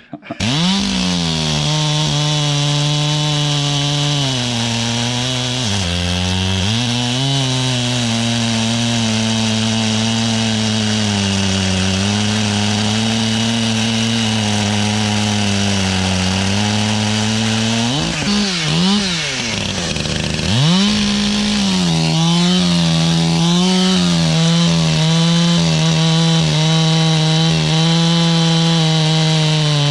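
Gas chainsaw running under load, cutting wood. Its engine note sags and recovers as the chain bites, with bigger dips and brief revs about two-thirds of the way through.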